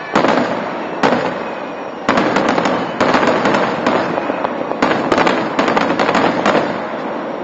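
Fireworks display: aerial shells bursting with sharp bangs, a few single reports followed by rapid runs of crackling bursts.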